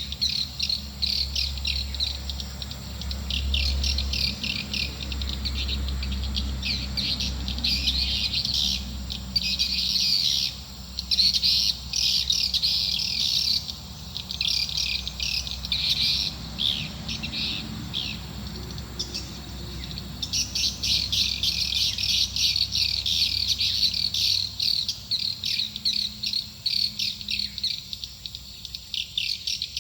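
Swiftlet lure call: a dense, continuous twittering of rapid high chirps, the sound used to draw edible-nest swiftlets into a swiftlet house. A low hum runs underneath and fades out about two-thirds of the way through.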